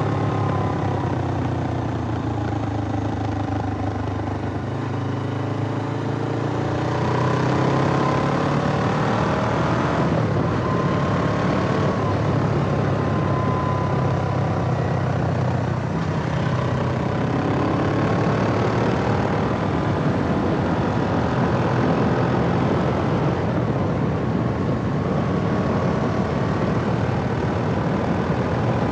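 Suzuki GS500E's air-cooled parallel-twin engine running under way, its pitch rising and falling several times as the revs climb and drop.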